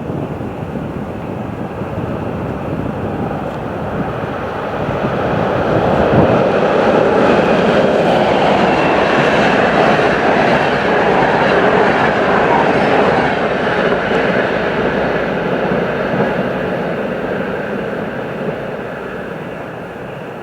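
A train passing on the track: the noise of its wheels and running gear grows louder about six seconds in, holds, then fades toward the end.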